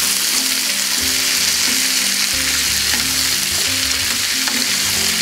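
Broad beans with onion, pancetta, ham and piquillo pepper sizzling steadily in a frying pan while a wooden spatula stirs them.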